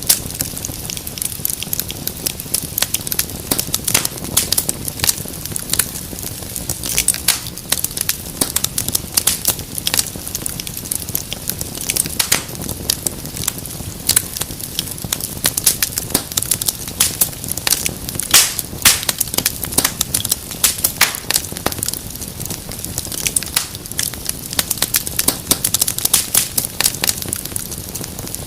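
Wood fire crackling steadily, with frequent sharp snaps and pops over a low rumble of flames.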